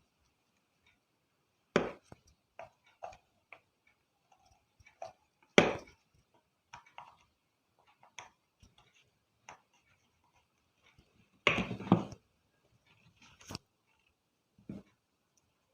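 Irregular clicks and knocks of a soldering iron, tools and small bulb parts being handled while the LED bulb's driver board is desoldered, the loudest near two seconds in, near the middle, and a short clatter about three quarters of the way through.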